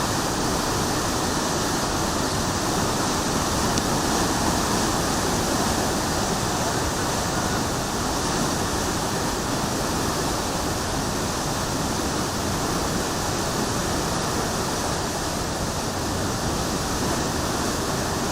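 Steady rush of a river in flood, fast-moving water.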